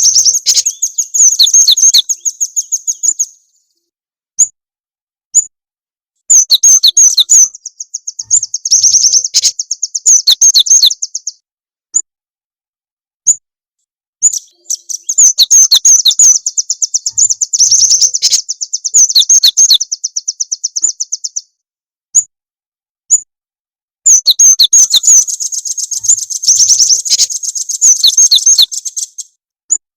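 Recorded songbird lure song: rapid, high-pitched chattering trills in four bouts of a few seconds each, with single short chirps in the gaps between them.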